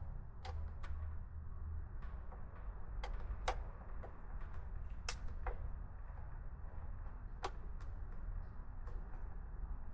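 Irregular light clicks and taps of a hand tool working loose a motorcycle battery terminal bolt, over a low steady hum.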